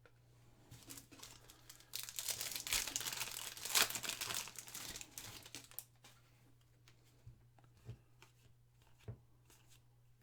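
Foil wrapper of a trading-card pack crinkling as it is torn open, about two seconds in and lasting some four seconds, followed by light taps and clicks of cards being handled.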